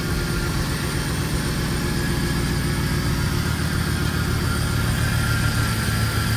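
Rebuilt car engine idling steadily just after a restart, its low hum growing slightly stronger near the end. The idle has not yet settled after a new sensor was fitted and the codes were cleared to cure a misfire.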